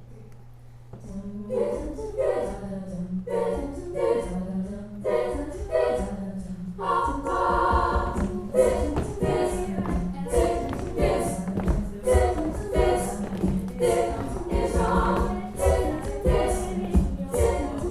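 Treble a cappella group singing wordless backing chords, starting about a second in and growing fuller around seven seconds, with a vocal-percussion beat underneath.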